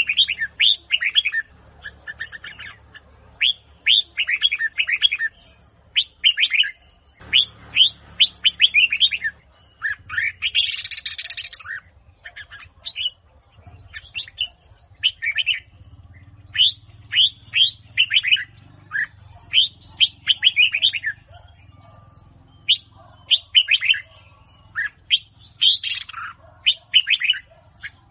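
Red-whiskered bulbul of the Huế song type singing: quick bursts of sharp notes, each sweeping down in pitch, strung into phrases with short pauses between them.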